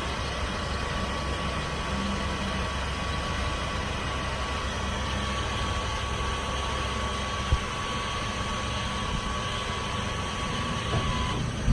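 Chevrolet 4500's Duramax V8 diesel idling with the PTO hydraulics working as the Versalift boom's telescopic section extends: a steady low engine rumble under a thin, steady hydraulic whine that stops shortly before the end. One short knock about halfway through.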